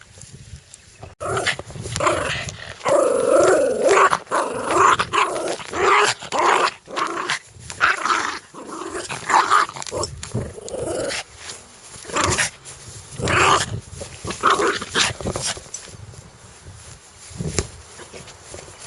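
Dog growling aggressively in repeated short bursts, starting abruptly about a second in. The growls are loudest and most continuous in the first half, then come in more spaced-out bursts.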